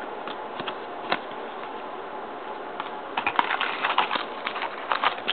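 Trading cards and a foil pack wrapper being handled: a few light clicks at first, then a quick, dense run of crinkling and clicking from about three seconds in as the cards are flipped or the pack is torn open.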